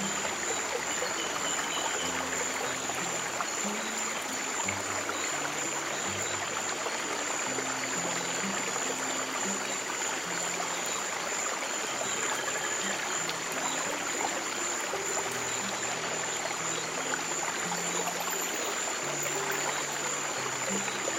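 Running stream water, a steady rushing and trickling, with slow, soft low music notes underneath.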